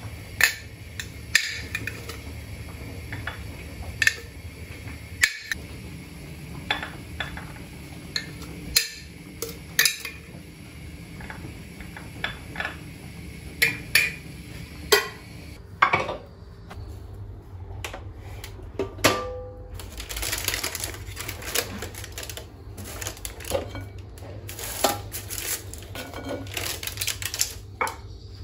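Kitchen handling sounds: dishes, pots and utensils clinking and being set down in a string of separate sharp clicks and knocks, a few with a short ring, over a steady low hum.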